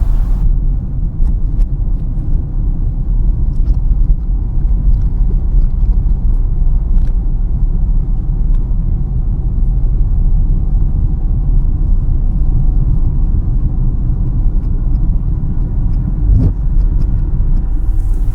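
Steady low road and engine rumble of a car driving, heard from inside the cabin, with a brief bump about sixteen seconds in.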